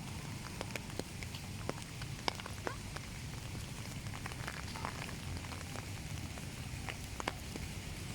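Rain falling, with many scattered sharp drip-taps of raindrops over a steady patter.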